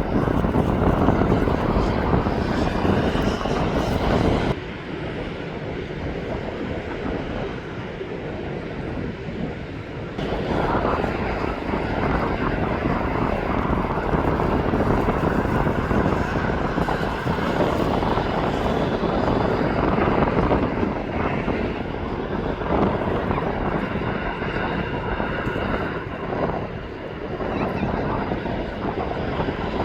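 Jet airliner engines running, a steady rushing noise that drops suddenly about four and a half seconds in and comes back louder around ten seconds.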